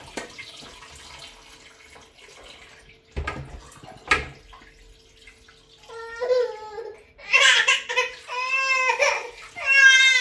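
A young child crying in loud, wavering wails that begin about six seconds in and grow louder toward the end, after a couple of knocks and a faint steady hum.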